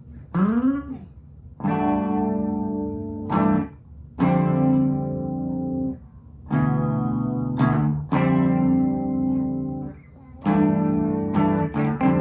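Donner DMT-100 electric guitar being jammed on. A bent note near the start is followed by a series of chords, each ringing for a second or two and then cut off short, with quicker picked notes near the end.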